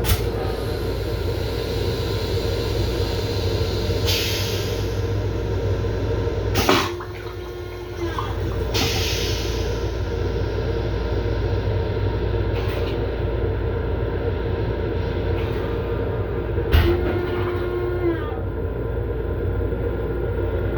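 LIRR M7 electric railcar running, a steady low rumble with a constant hum, heard from inside the car's small restroom. Sharp clicks about seven seconds in and again near the end, each followed by a short tone.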